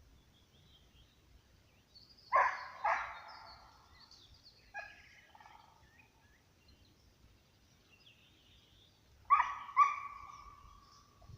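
Scent hound baying: two pairs of loud, echoing barks about seven seconds apart, the last one drawn out into a longer howling note, with a fainter yelp between them. Faint birdsong in the background.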